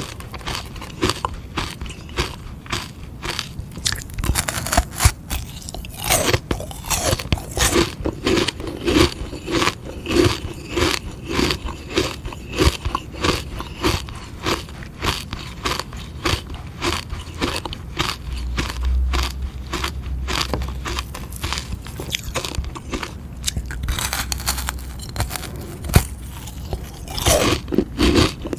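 Biting and chewing into a frozen sugar-water ice pop: a run of sharp, crackling crunches, several a second.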